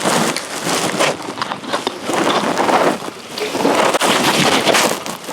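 Wind buffeting the microphone in loud gusts that swell and fade, with rain falling.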